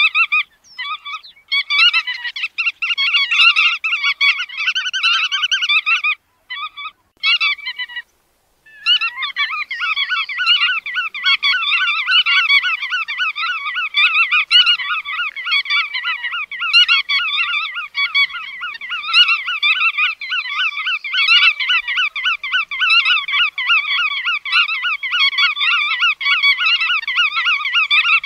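Bar-tailed godwits calling: a dense run of rapid, overlapping calls. It is broken by short gaps in the first eight seconds, then runs unbroken from about nine seconds in.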